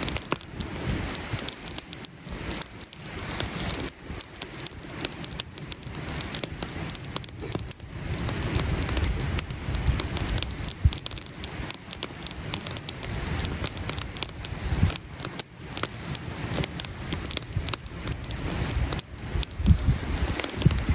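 Campfire crackling and popping with many irregular snaps, over an uneven low rumble.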